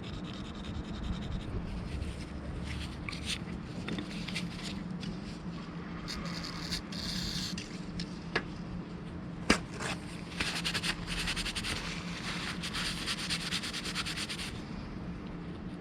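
Scraping and rubbing as parts of a disassembled starter motor are handled, with two sharp clicks near the middle and a busier stretch of rapid scratching over the second half.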